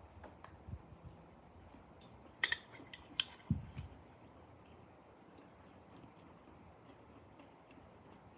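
A few sharp clicks of an eating utensil against a dish about two and a half and three seconds in, followed by a soft low thump. A faint high chirp repeats about twice a second behind it.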